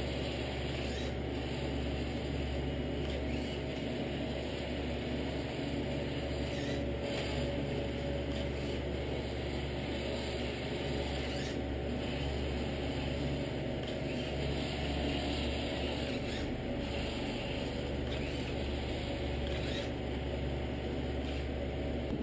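Radio-controlled 1/14 scale model truck running, a steady whir and hum of its electric drive and gears, with a few faint ticks.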